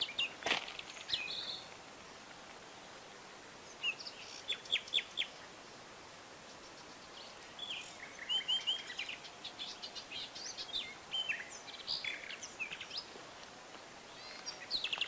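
Wild birds chirping over a steady outdoor hiss: a quick run of short high notes about four seconds in, then busier overlapping calls from several birds between about seven and thirteen seconds. A few sharp clicks, like steps in brush, come at the start and near the end.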